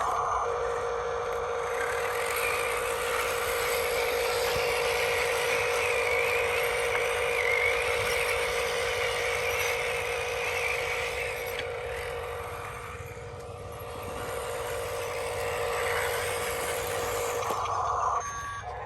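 Radio-controlled toy construction vehicle running: a steady electric motor and gear whine, easing off briefly about two-thirds of the way through.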